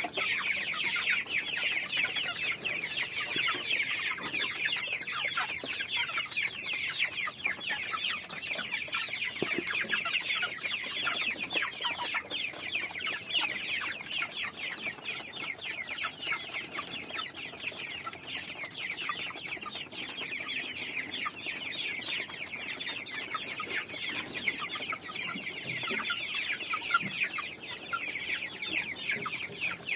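A flock of chickens calling continuously: a dense chorus of many overlapping, high-pitched peeps.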